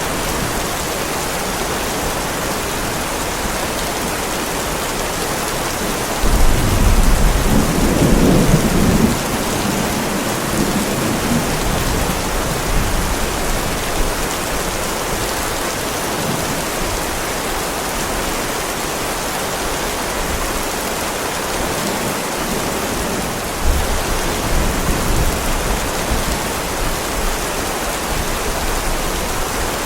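Heavy rain falling steadily on a driveway, with a roll of thunder starting about six seconds in and lasting several seconds, and a second, weaker rumble of thunder about two-thirds of the way through.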